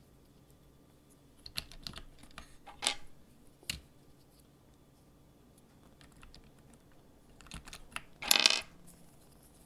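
Scattered clicks and clacks of mechanical keyboard parts being handled, with a brief, louder rattling scrape near the end.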